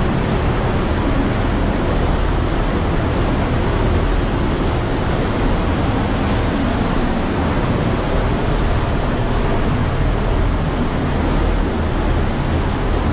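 Cave waterfall pouring steadily, a loud, even rush of falling water swollen by several days of rain.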